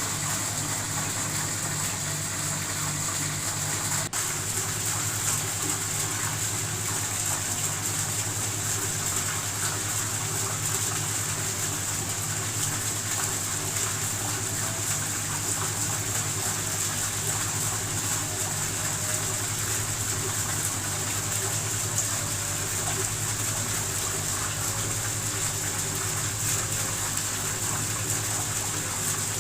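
Indoor decorative waterfall: water falling and splashing steadily, with a low steady hum underneath and a single click about four seconds in.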